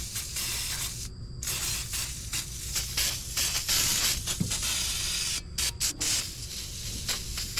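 Steady hissing spray over a low rumble, cutting out briefly a few times near the end.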